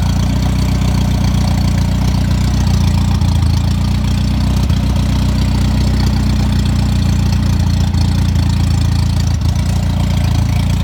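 Morris Marina 1.3's four-cylinder A-Series engine idling steadily on a test rig, fully warmed up after about half an hour of running.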